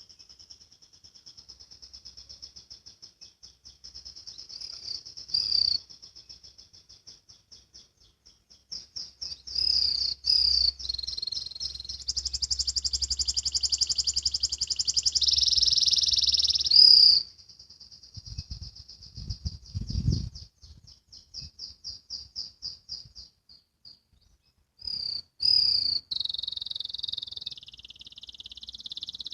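Domestic canary singing a long, high-pitched song of rapid repeated notes and fast buzzing trills in the 'ngriwik' style, used as a master song for young canaries learning to sing. A few low thumps come about two-thirds of the way through.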